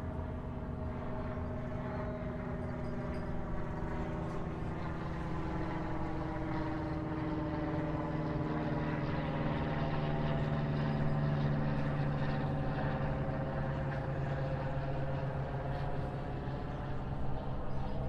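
A passing engine drone, growing louder to its peak about two-thirds of the way through and then easing off, its pitch sliding slowly down as it goes by.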